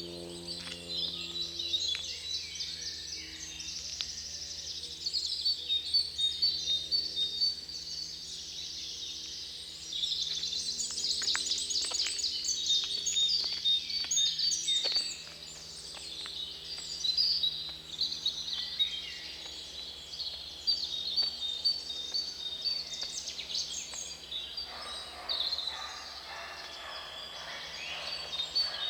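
Several songbirds singing at once, a dense overlapping chorus of high trills and chirps, over a faint steady low hum. A stretch of rushing noise joins in near the end.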